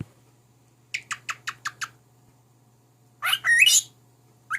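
Cockatiel calling: a quick run of about six short chirps, each falling in pitch, then a louder, longer warbling call with wavering pitch about two seconds later.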